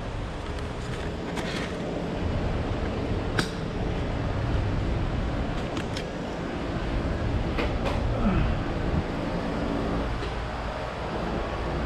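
Bicycle ride heard from the bike: a steady low rumble of rolling and wind noise, with a few sharp clicks and rattles, one about three and a half seconds in and a couple more near eight seconds.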